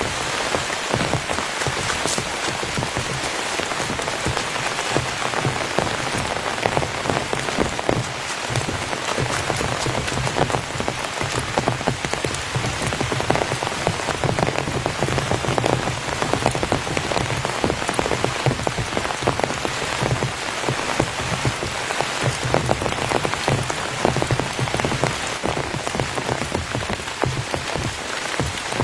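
Heavy rain falling steadily on a tent, a dense patter of individual drop ticks over a continuous hiss.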